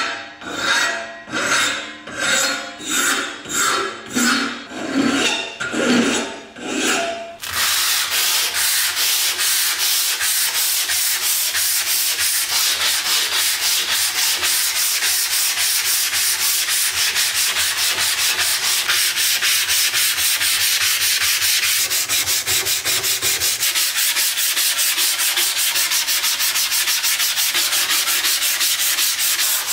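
Sanding: about ten rhythmic back-and-forth strokes, then about seven seconds in a steady, continuous sanding takes over.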